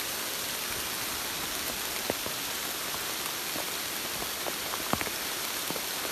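Heavy rain falling steadily, with a few louder drops tapping close by.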